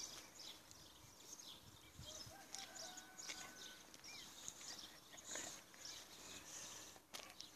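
Quiet outdoor ambience with faint, scattered high bird chirps.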